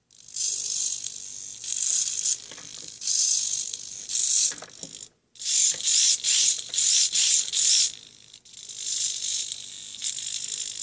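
Metal-gear RC servos whirring in repeated short bursts as they swing retractable landing lights down and back up.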